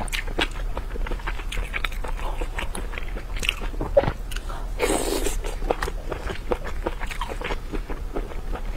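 Close-miked eating sounds: a person biting and chewing skewered seafood, with a dense run of short mouth clicks and crunches, one louder click about four seconds in, over a steady low hum.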